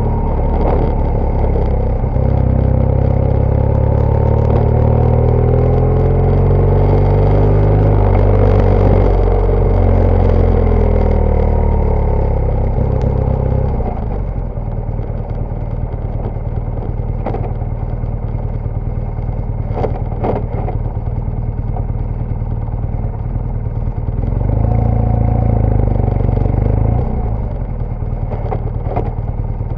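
BMW GS Adventure motorcycle's boxer-twin engine running under varying throttle off-road, its pitch rising and falling. It drops back to a lower, steadier note about halfway through and picks up again briefly near the end. Several sharp knocks are scattered through the second half.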